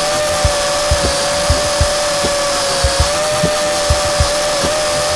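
Small quadcopter's motors and propellers whining in flight, holding a steady pitch with slight wavers. Soft low knocks recur every half second or so underneath.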